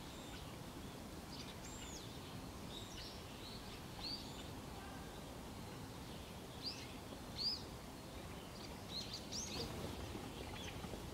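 Small songbirds calling with short, high chirps scattered throughout, over a steady background hiss.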